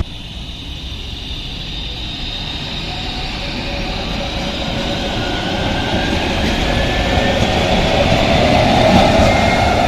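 Tram accelerating: the traction motors whine in two tones that rise slowly in pitch while the running noise of wheels on rail grows steadily louder.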